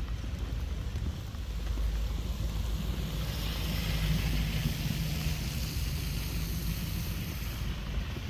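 Wind buffeting the microphone with a low rumble, and a rushing hiss that swells about three seconds in and drops away abruptly near the end.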